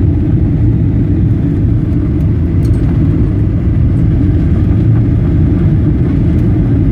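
Steady low rumble of engine and airflow noise heard inside the cabin of a Boeing 737 airliner, with no change in level.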